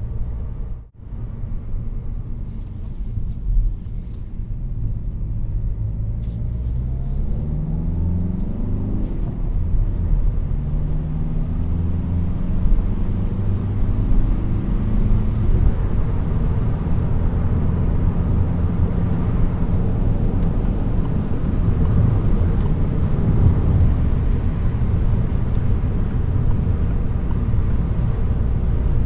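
2018 Peugeot 308 1.6 BlueHDi 120's four-cylinder turbodiesel engine pulling as the car accelerates. Its note rises twice, with a gear change between, over a steady tyre and road rumble. The sound cuts out briefly about a second in.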